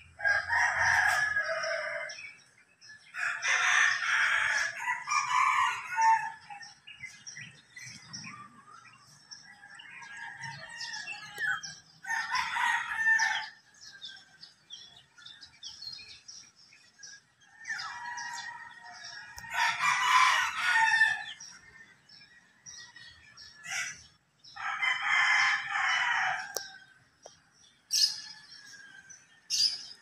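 Birds calling: about five loud, drawn-out calls of one to three seconds each, several seconds apart, with shorter chirps between them and a few sharp chirps near the end.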